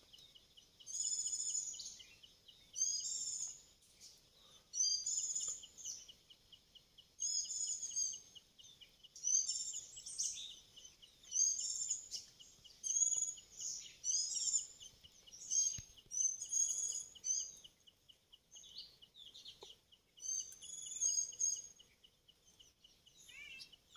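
A bird singing in short, high, chirpy phrases, repeated about every one to two seconds, over a faint steady high trill.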